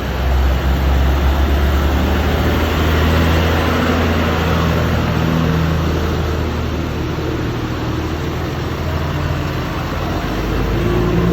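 Road traffic: motor vehicle engines running steadily with a strong low rumble over road and wind noise.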